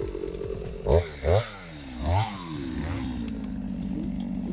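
Stihl MS 250 two-stroke chainsaw revved in three quick blips, its pitch rising and falling each time, then dropping back to a steady idle for the last second and a half.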